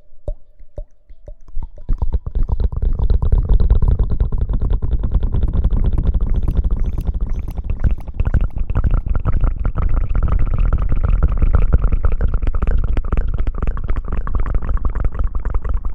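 Close-up ASMR hair-washing sounds: a few light taps, then from about two seconds in a dense, continuous wet squishing and crackling of scrubbing right at the microphone.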